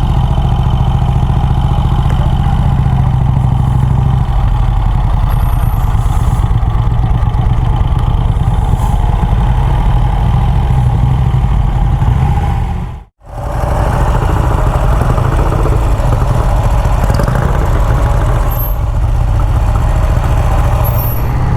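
Vincent motorcycle engine running steadily. The sound cuts out abruptly for a moment about thirteen seconds in, then the engine carries on.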